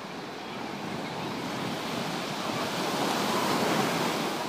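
Ocean surf: a wave breaking and washing up the beach, the rush swelling about three seconds in and then easing off.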